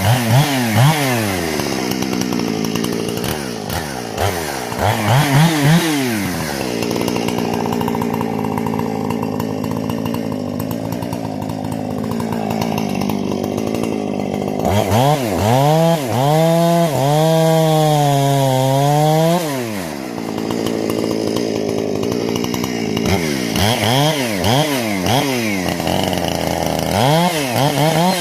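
Husqvarna 460 two-stroke chainsaw, with a modified carburetor and muffler, running during break-in. It revs up and down in quick blips, holds a lower, rougher steady pitch for several seconds, revs high and wavering for about four seconds past the middle, then goes back to quick blips near the end.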